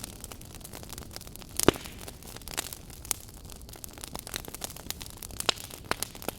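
Log fire crackling: burning wood gives off irregular snaps and pops over a soft steady hiss, with one sharp, loud pop a little under two seconds in.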